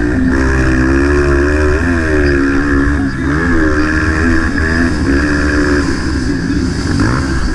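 Motocross motorcycle engine of the 230 cc class revving up and down with the throttle. Its pitch rises and falls several times and drops briefly about three seconds in, over a steady rushing noise.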